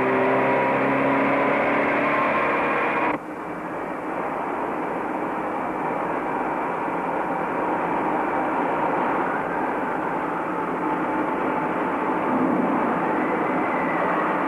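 Rover 2000's two-litre four-cylinder overhead-cam engine running on the test bench, its pitch slowly rising. About three seconds in the sound cuts abruptly to a steady, rougher mechanical drone.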